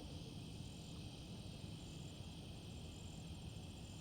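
Faint, steady chorus of crickets and other insects at dusk, with a pulsing high trill among them, over a low, even background rumble.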